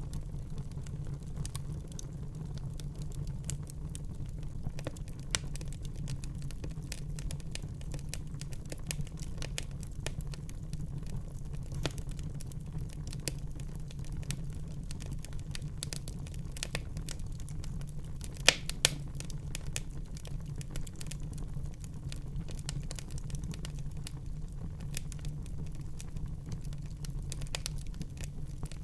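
Wood fire burning in a fireplace: constant crackling and small snaps over a steady low rumble of the flames, with two sharper pops in quick succession about two-thirds of the way through.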